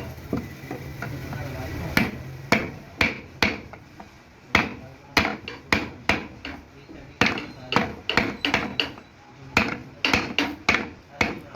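Repeated hammer blows in a workshop, about twenty sharp strikes in uneven groups of two or three, starting about two seconds in. A low steady hum runs under the first two seconds.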